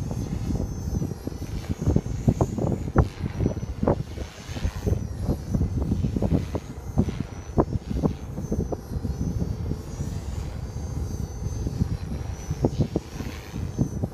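Hard wind buffeting the microphone in uneven gusts, over the thin high whine of an ALZRC Devil 480 electric RC helicopter in flight.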